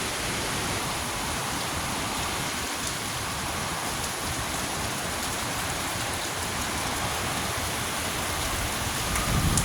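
Heavy hurricane rain pouring down in a steady rush, driven by strong wind, with low gusts starting to build near the end.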